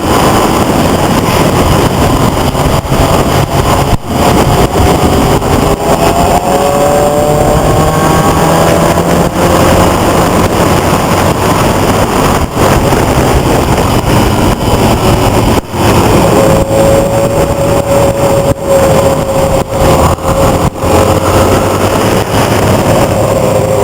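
Loud motor-vehicle engines running and revving, their pitch rising in several glides early on, then holding a steady note for the last several seconds.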